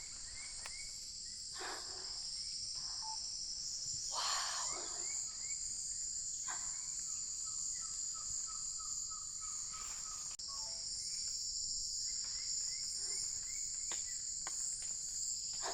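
Amazon rainforest insect chorus, a steady high-pitched drone, with birds calling over it: short chirps repeated in series, and a run of quick even notes in the middle.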